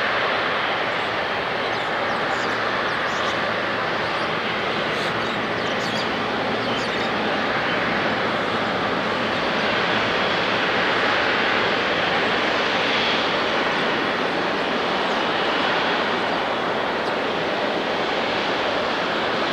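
Widebody jet airliner's engines running, a loud, steady rush that slowly swells and eases, with a faint high whine about two-thirds of the way through.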